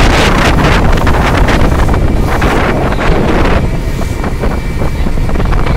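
Strong storm wind buffeting the microphone, loud and gusty, easing about three and a half seconds in. A boat's engine runs underneath.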